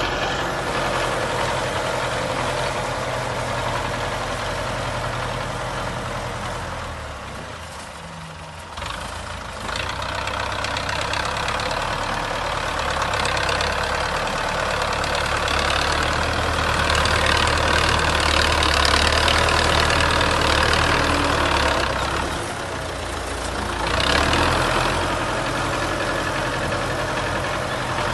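Tractor engine running steadily. It drops in level about eight seconds in, grows louder through the middle, and dips briefly again near the end.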